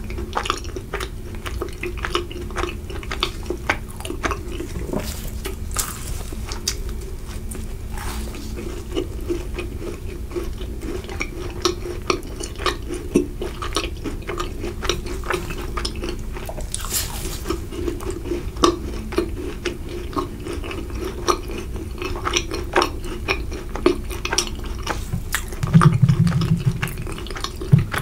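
Close-miked chewing of a macaron: many small crisp crunches and clicks as the shell breaks and is chewed. A short low rumble is heard near the end.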